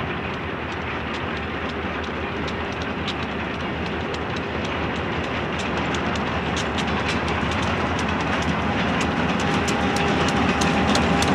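Eastern Idaho Railroad diesel freight locomotives with a string of hopper cars approaching, their rumble growing steadily louder. Wheels click over the rail joints, more and more often from about halfway on, and a steady whine comes in near the end.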